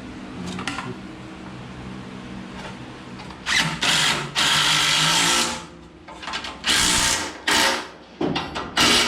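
Handheld power drill run in five short bursts, the longest about a second.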